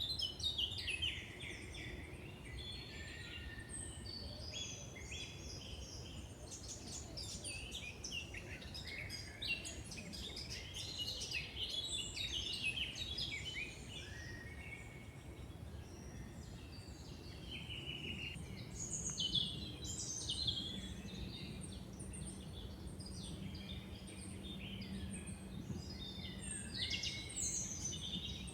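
Woodland birds singing and calling, many short chirps and trills from several birds overlapping, over a steady low background rumble. A faint steady low hum joins in during the second half.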